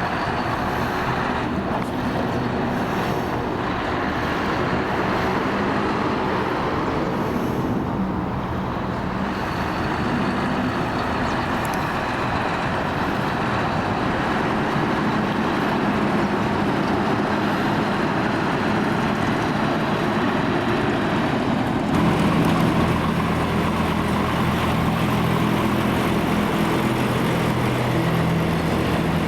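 Diesel lorry engines running, with passing traffic noise. About three quarters of the way through, a deeper, louder engine note from a nearby truck sets in and holds steady.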